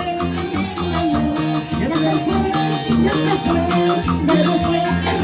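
Live band playing an instrumental passage of Latin American folk music: plucked strings over a steady, repeating bass line.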